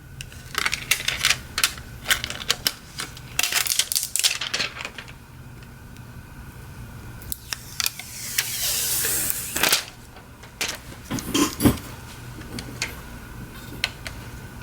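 Light clicks and taps of small phone parts and tools being handled on a workbench, bunched in the first few seconds and again later, with a brief rushing hiss of about a second and a half near the middle.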